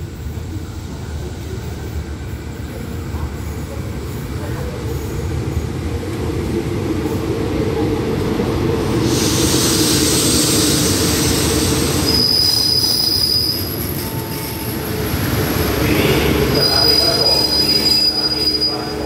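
Four-car diesel express train pulling into a station: a low rumble that grows as it approaches, a hiss about nine seconds in, then a high-pitched brake squeal from about twelve seconds in as it slows, squealing again near the end as it draws to a stop.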